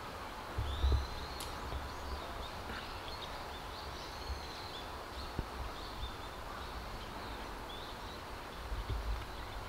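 Faint, short high chirps of small birds, repeated throughout over a steady outdoor background hiss. Low rumbles come about a second in and again near the end.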